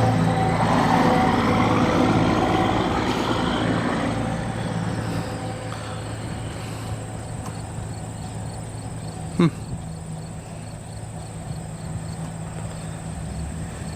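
A motor vehicle drives past and fades away over a steady low engine hum. Crickets chirp behind it, and there is one short sharp click about nine seconds in.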